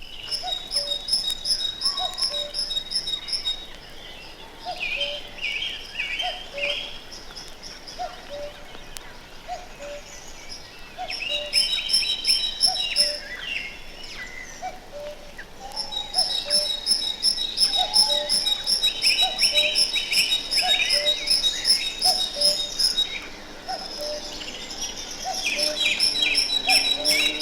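Common cuckoo calling its two-note "cuck-oo", a higher note falling to a lower one, repeated about once a second, over a great tit's chiming song of fast, evenly repeated high notes in several bursts. Other small birds chirp in between.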